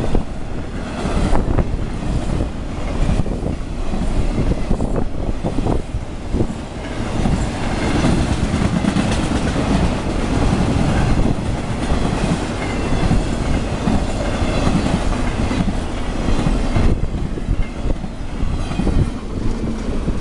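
Fast CSX intermodal freight train passing close by, a steady loud rumble of steel wheels on the rails with clicks of the wheels over rail joints, sharpest in the first few seconds. The noise thins out near the end as the last cars go past.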